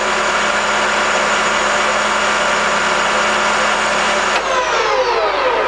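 Colchester Mascot 1600 geared-head centre lathe running at its 1195 rpm spindle speed, a steady whine from the headstock gears. About four seconds in it winds down, the pitch falling as the spindle slows.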